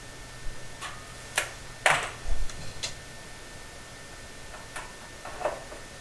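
Tin snips cutting 3-inch sheet-metal flue pipe: a series of sharp, irregular metallic snips and clicks, with one low thump of the pipe being handled about two seconds in.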